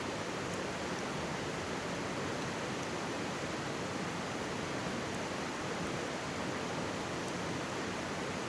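Mountain stream rushing steadily close by, an even wash of water noise, with a few faint, high crackles from a wood campfire.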